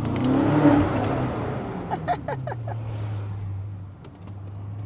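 BMW M5's twin-turbo V8 through a DCE catback exhaust with its valves open: a rumbling surge of acceleration with rising pitch, a few short pops about two seconds in, then a steadier low rumble that eases off near the end.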